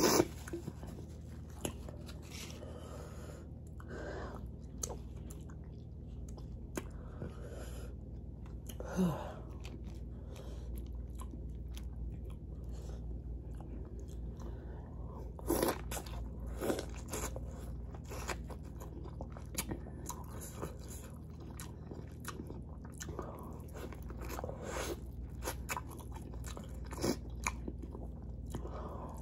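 A person chewing and biting into seafood-boil food such as corn on the cob, with scattered wet mouth clicks and smacks; a few louder ones come about nine seconds in and again around sixteen seconds. A steady low hum runs underneath.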